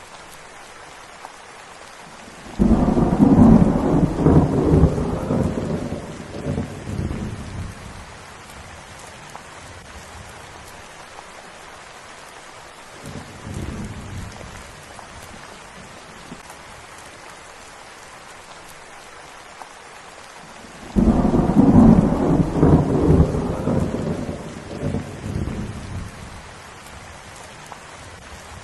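Steady rain with rolling thunder: two loud claps that start abruptly about three seconds in and again about twenty-one seconds in, each rumbling away over some five seconds, and a fainter rumble in between.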